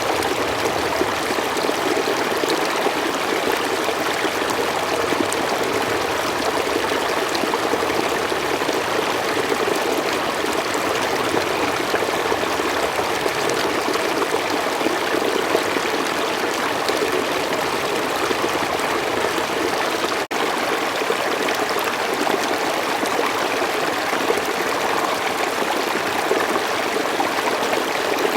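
Slow forest stream running steadily, an even rush of flowing water, with a momentary drop in the sound about two-thirds of the way through.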